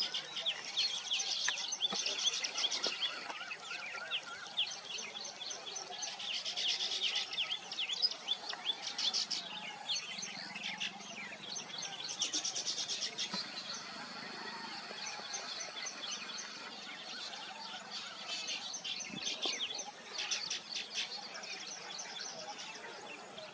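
Weaver birds chattering in a colony: many rapid, overlapping high chirps and buzzy calls, swelling into busier bursts every few seconds. A thin steady high whine sounds for a few seconds past the middle.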